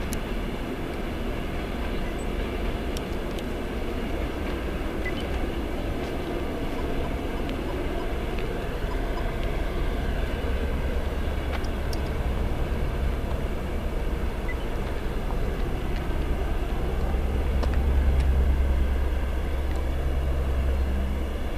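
Passenger train coaches rolling along the track with a steady rumble and rattle of wheels. A low rumble swells near the end.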